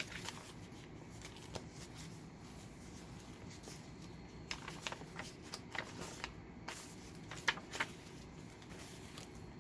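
Paper pages of a handmade journal being turned and handled, with scattered soft clicks and rustles, busiest in the middle and near the end.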